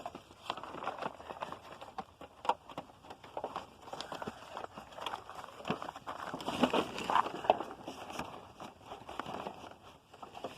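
Irregular rustling and crackling with scattered light clicks and taps, the sound of things being handled; no vacuum motor is running.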